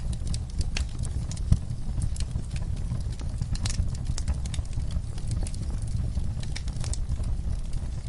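Wood fire burning in a fireplace: a steady low rumble of flames with irregular sharp crackles and pops, one louder pop about a second and a half in.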